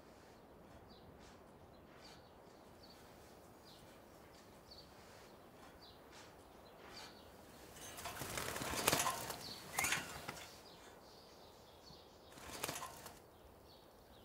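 Small caged bird giving faint, short high chirps, then fluttering its wings in three bursts in the second half, the first the longest and loudest.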